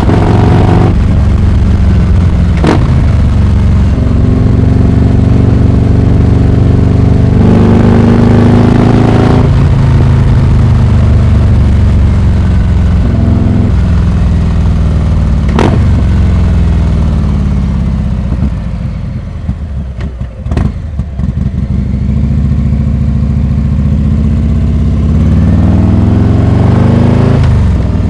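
Harley-Davidson Heritage Classic 114's Milwaukee-Eight 114 V-twin running through a Rinehart exhaust under way, its pitch rising as it revs and falling as it eases off, with two sharp clicks. It drops quieter as the throttle closes about two-thirds in, then pulls up again near the end.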